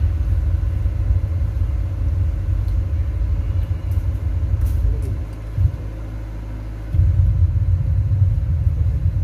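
Deep, heavy bass rumble from a large sound system's subwoofers, with almost nothing but low end. It drops back about two-thirds of the way in, then comes back in at full strength.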